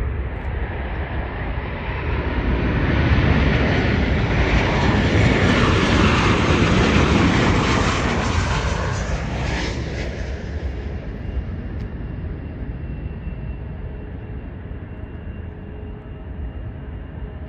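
Boeing 737 jet airliner passing. The engine noise swells over the first few seconds, stays loud for several seconds, then fades away.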